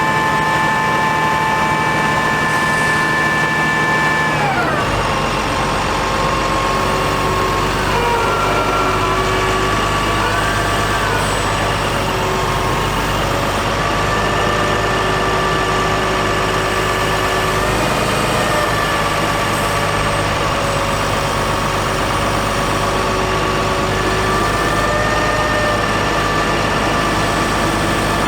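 International DT466 diesel engine of a digger truck running, with a high whine whose pitch drops sharply about four and a half seconds in as the engine slows, then wavers up and down.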